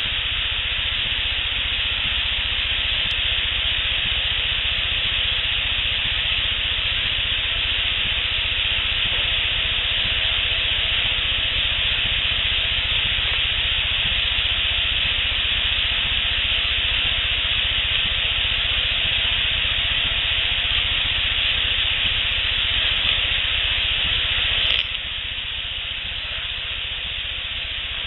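Steady hiss of a heavily amplified field recording with no distinct sounds standing out. The hiss drops a little in level about 25 seconds in, where the recording cuts.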